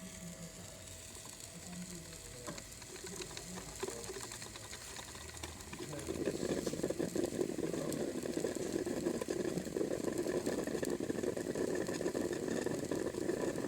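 A coffee machine starting up about six seconds in and running with a steady mechanical whirr and a faint constant whine.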